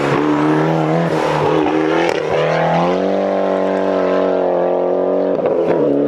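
2008 Mitsubishi Lancer Evolution rally car's turbocharged four-cylinder engine running hard. Its note wavers at first, steps up in pitch about three seconds in and holds steady, then breaks roughly for a moment near the end before settling again.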